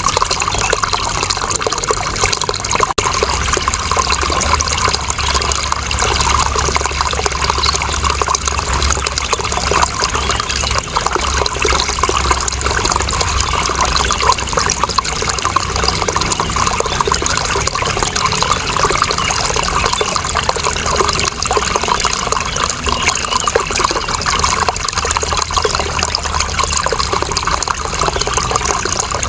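Running water, a steady unbroken flow with a trickling, splashing texture.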